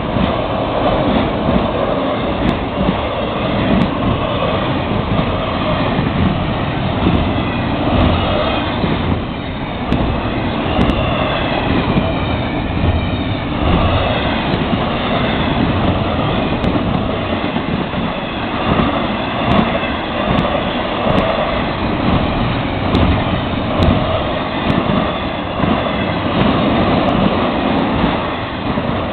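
Florida East Coast Railway freight train of autoracks and intermodal cars rolling past at track speed: a loud, steady noise of wheels on rail that doesn't let up.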